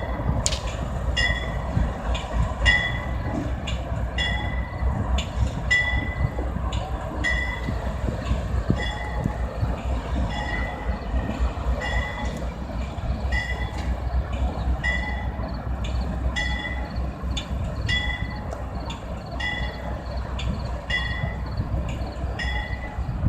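A train rumbling at the station with a bell ringing steadily, about one strike every three-quarters of a second.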